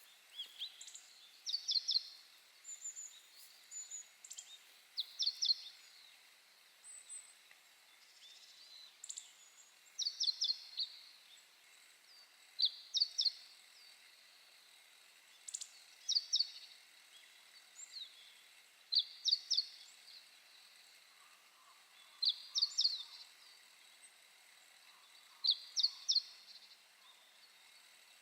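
A small bird singing short phrases of a few quick high notes, repeated every two to three seconds, over faint outdoor background noise.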